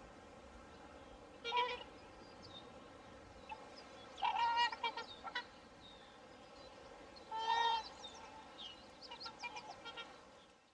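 Swans calling: three louder honking calls, about a second and a half in, around four seconds in and around seven and a half seconds in, with several fainter calls near the end, over a steady background hiss.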